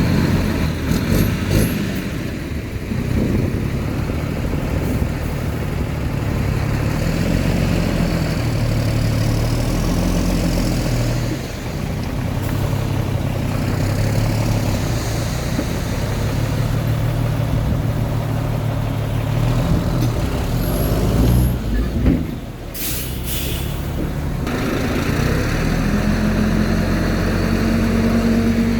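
Heavy diesel earthmoving machinery running steadily under load, with a brief sharp hiss a little over two-thirds of the way in. Near the end the engine note rises as it revs up.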